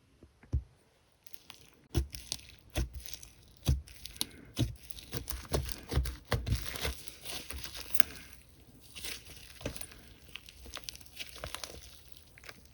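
Slime being squished, stretched and pressed by hand, giving irregular small pops and clicks that begin about a second and a half in.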